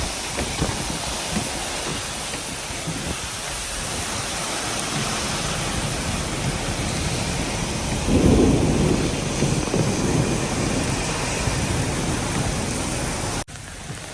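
Wind-driven heavy rain and strong wind on a moving vehicle, a steady rushing noise, with a louder low gust about eight seconds in. The sound drops out briefly near the end.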